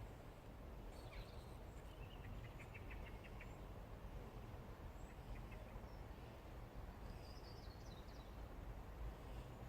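Faint bird chirps, a short run about a second in and another near the end, over a low steady background rumble.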